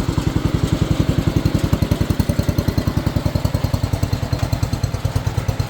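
Kohler K321 14-horsepower single-cylinder engine of a 1970 White 114 garden tractor idling steadily, with an even, rapid firing pulse. It is idling smoothly and quietly, a sign the engine runs well.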